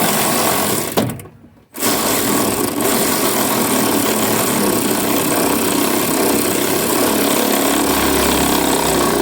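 Handheld power driver running down the fan shroud bolts: a burst of about a second, a short stop, then a long steady run.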